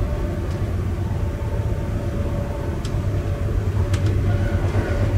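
Inside a moving passenger train: a steady low rumble of the wheels on the track with a faint hum from the drive. Two short high clicks sound about three and four seconds in.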